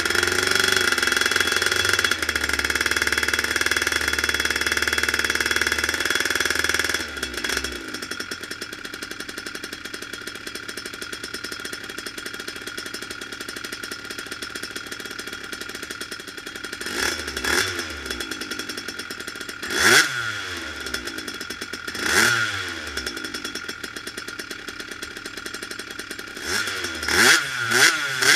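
Yamaha Jog RR scooter's two-stroke engine, fitted with a MOST exhaust, held at high revs for about seven seconds, then dropping to a quieter idle. It is blipped up and back down several times, once around the middle and a few quick ones near the end.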